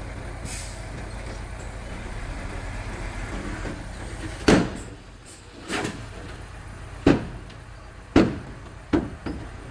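Mitsubishi bulldozer's diesel engine running steadily with a low drone, and five sharp metallic clanks in the second half, about one a second.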